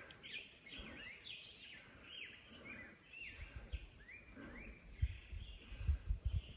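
A bird singing a run of short, clear notes, each sliding downward, about two a second. Near the end come a few soft low thumps.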